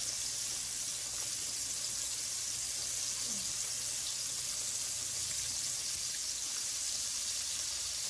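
Flour-dredged pork chops frying in hot canola oil in a non-stick skillet, a steady sizzle.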